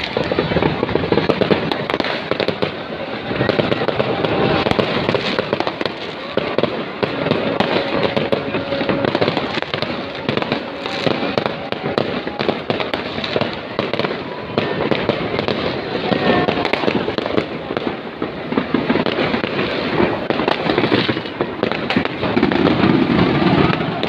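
New Year fireworks display: a dense, continuous barrage of bangs and crackling from many shells going off at once, with no let-up.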